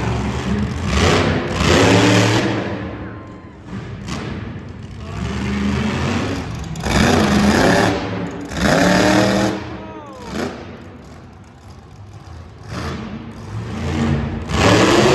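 Monster truck engine revving in several loud surges a few seconds apart, each rising hard and then falling away with a dropping whine.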